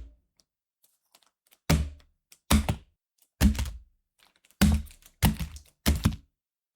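Cardfight!! Vanguard trading cards being handled at close range. Six short, sharp card-on-table taps come about a second apart, each dying away quickly.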